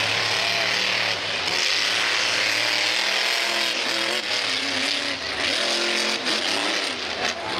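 Monster truck engine running hard, its pitch rising and falling repeatedly with the throttle.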